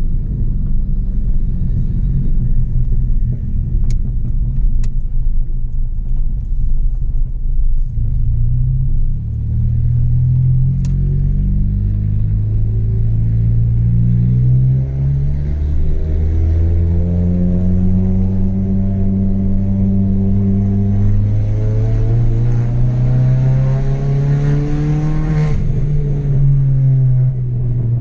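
Chevrolet Astra 2.0 four-cylinder engine through a straight-through exhaust, driving with a deep rumbling drone. The note climbs gradually twice as the car pulls, then drops sharply near the end.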